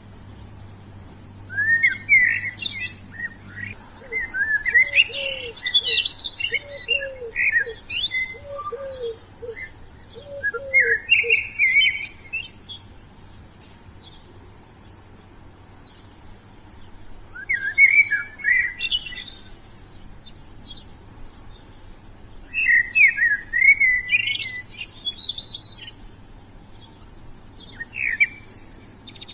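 Wild songbirds singing: bursts of quick, high chirping phrases broken by pauses of a few seconds. In the first half, a lower call repeats about once a second beneath them.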